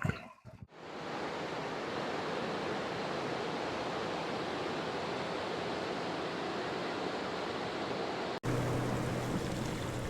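Steady rushing of falling water from a waterfall, an even hiss-and-roar that fades in over the first second or two. A cut about eight seconds in leads to more rushing water with a steady low hum under it.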